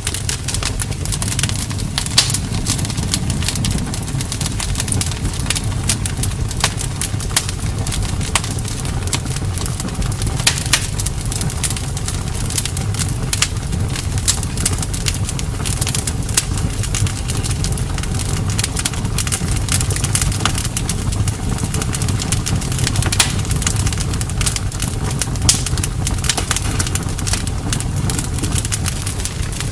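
Wood bonfire burning, crackling with frequent sharp pops over a steady low rumble.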